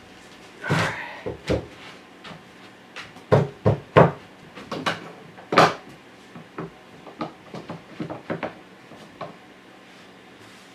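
Irregular knocks, clicks and thuds of objects being handled and set down, a dozen or so at uneven spacing, the loudest a few seconds in.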